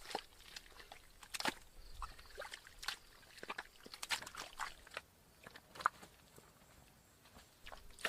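Faint, irregular light clicks, crackles and scrapes of hands working building materials, with a few sharper taps.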